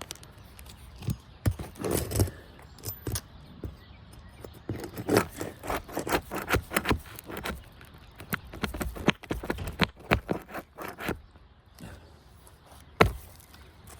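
Metal nail-removal tool scraping and knocking under an architectural asphalt shingle in a run of short, irregular strokes, with one sharp knock near the end, as a roofing nail held fast in the shingle tar is worked loose.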